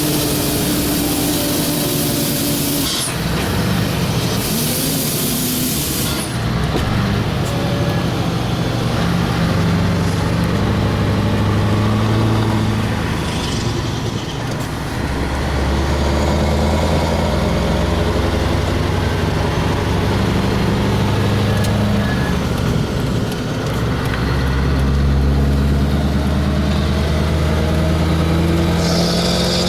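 Scania 4-series V8 truck engine running, its pitch shifting up and down several times. Bursts of air hissing come in the first few seconds and again near the end.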